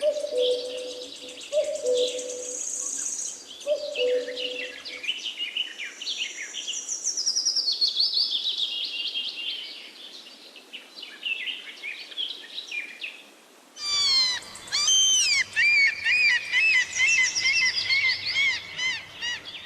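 Small birds chirping and singing in dense, high warbling trills. Four low hooting notes about a second apart come in the first few seconds, and near the end the birdsong suddenly grows louder over a low hum.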